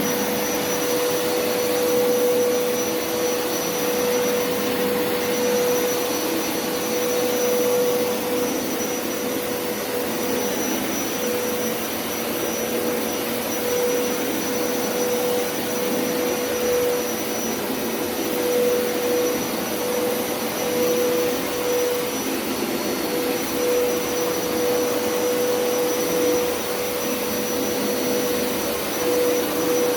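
Hoover SpinScrub50 carpet washer running, its suction motor a steady whine over a rush of air, the level wavering gently as it is pushed back and forth.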